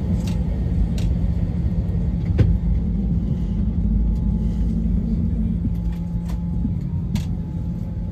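Airbus A321 airliner cabin noise on the ground: a steady low rumble with a constant hum, broken by a few short clicks or knocks.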